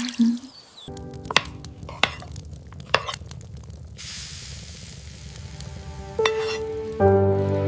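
Cooking in a pan: utensil taps and stirring, with a sizzling hiss from about four seconds in. Soft background music with held notes plays under it and grows louder near the end.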